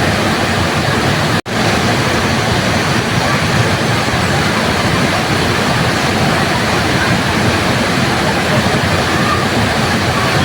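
Waterfall: steady, loud rushing of falling water, broken by a very brief dropout about a second and a half in.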